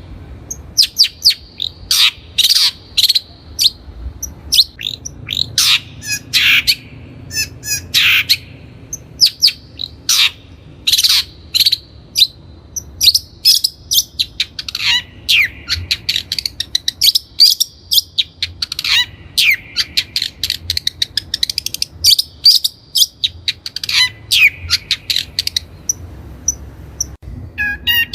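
Long-tailed shrike singing: a fast, varied run of short, sharp notes mixed with chattering trills, repeated without a break.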